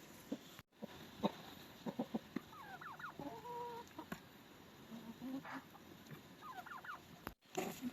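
Chickens clucking and calling: short calls, some sliding in pitch, and one longer held call a little past the middle. The sound drops out completely for a moment twice.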